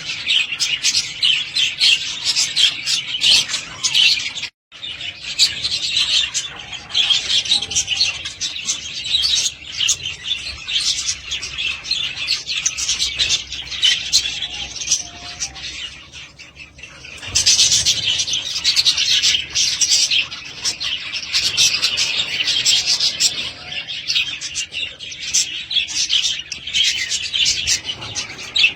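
A flock of budgies chirping and chattering continuously in dense overlapping high chirps, with a brief break about four and a half seconds in and a quieter spell past the halfway point.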